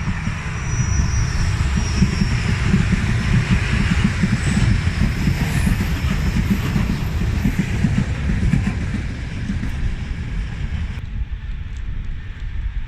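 A diesel train running past on the rails: a steady rumble of wheels and running gear that is loudest in the middle and eases off near the end.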